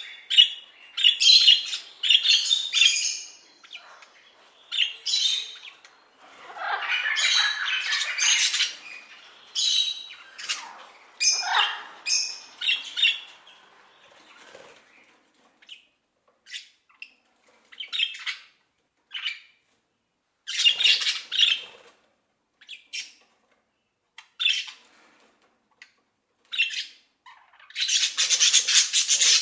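Parrots squawking: harsh, irregular calls with one long rasping stretch in the first third, scattered short squawks after that, and a dense burst of squawking near the end.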